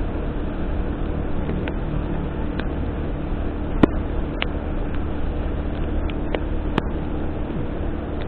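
A vehicle driving on rain-wet roads, heard from inside: a steady low drone of engine and tyres with a faint hum, broken by a few sharp clicks, the loudest about four seconds in and again near seven seconds.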